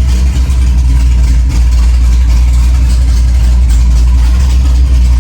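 Cammed 427 LSX V8 running steadily and loud through 3-inch straight pipes, a heavy low exhaust rumble.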